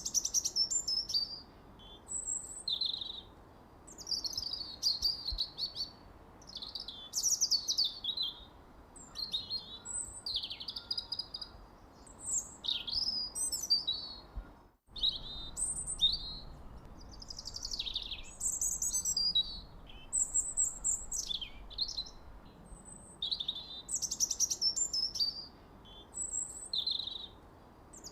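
Songbirds chirping and singing in a continuous stream of short, varied, high-pitched phrases, with a brief sudden cut to silence about halfway through.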